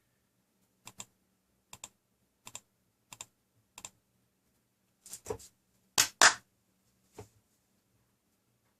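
A series of short, sharp clicks and taps, mostly in quick pairs about once a second, followed by a few louder knocks around five to six seconds in and a last tap about a second later.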